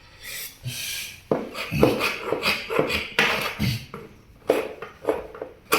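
Linbide carbide-blade hand scraper dragged in short repeated strokes across a timber floor in a corner, about ten rasping scrapes. The blade is blunt.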